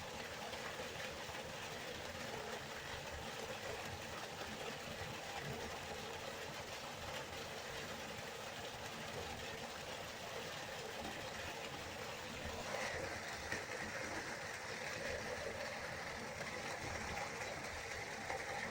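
Waterfall, water rushing and splashing in a steady, unbroken roar of noise. About two-thirds of the way through, the sound turns a little brighter and hissier.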